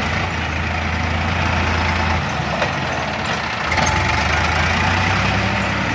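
Heavy diesel engine running steadily with a deep drone; its note drops back for a second or so about halfway through, then picks up again.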